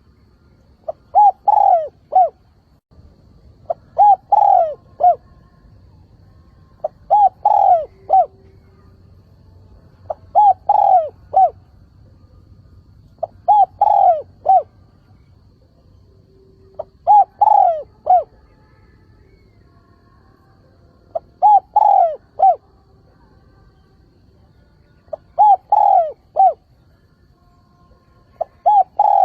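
Spotted dove cooing: a short phrase of several clipped notes, repeated about every three to four seconds.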